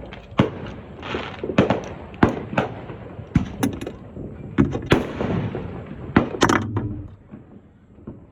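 Fireworks going off: an irregular run of sharp bangs and cracks, about a dozen in seven seconds, some trailing a short hiss, then dying away near the end.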